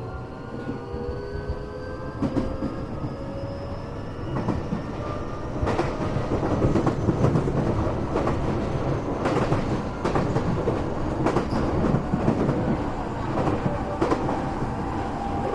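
Tokyo Metro 8000-series commuter train heard from inside a passenger car: a motor whine of several tones rises slowly in pitch and fades out over the first few seconds. From about six seconds in, louder wheel-and-rail rolling noise takes over, with repeated clicks over the rail joints.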